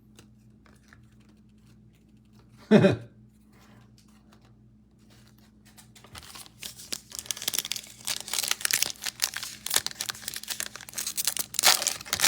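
A single short thump about three seconds in, then, from about halfway on, the crinkling and tearing of a foil trading-card pack being ripped open, getting louder toward the end.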